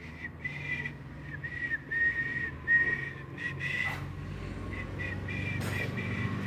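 Whistling: a high, thin tone in a string of short notes held at nearly the same pitch, over a low hum.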